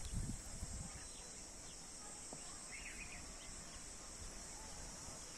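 Steady high-pitched insect chorus, with a short bird chirp about three seconds in over faint low rumble.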